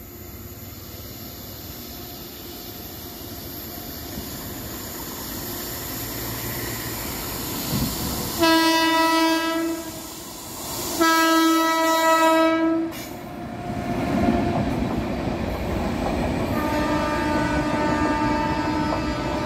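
Approaching Indian Railways express train: a rumble that grows steadily louder, then two long blasts of the WAP7 electric locomotive's horn, the second a little longer, before the locomotive and coaches rush past with a loud rumble and wheel clatter. A fainter steady tone runs under the passing noise near the end.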